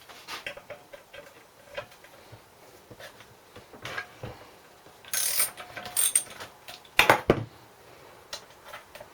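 Metal clicks, clunks and ratchet-like clicking as the wind-up spring starter of a Briggs & Stratton engine is handled and worked on. There is a brief rushing noise about five seconds in and a cluster of loud knocks about seven seconds in.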